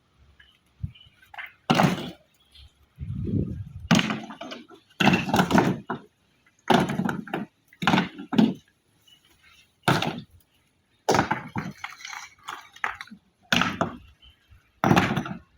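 Irregular series of about a dozen sharp knocks and crashes, some with a short scraping tail, typical of pieces of stone being knocked, chipped or broken.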